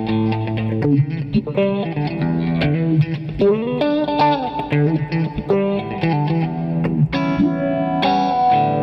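Electric guitar played through a Retrohead Cosmic Phaser pedal: picked notes with a few bends in the middle, then fuller strummed chords from about seven seconds in.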